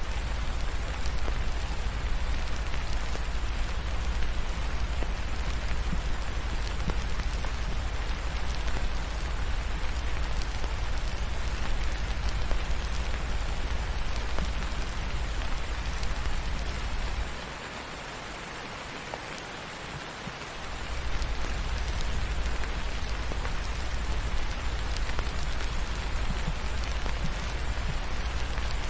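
Steady rain falling, an even hiss with a deep low rumble underneath; the rumble drops out for about three seconds past the middle, then returns.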